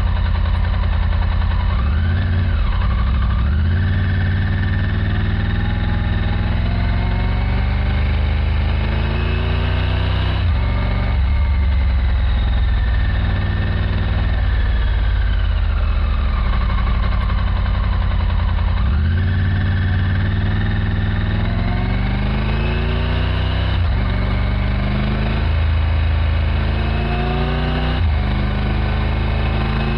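2024 Triumph Tiger 900 GT Pro's 888 cc inline-triple engine under way, its pitch rising as it accelerates and falling as it slows. Short breaks in the tone about ten seconds in and again in the last third are gear changes. The bike is being ridden in its running-in period.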